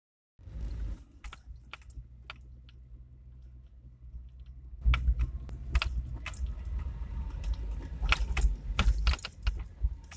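A Lada Priora knocking and creaking: sharp knocks and rattles over a steady low rumble. They grow louder and come much more often about five seconds in.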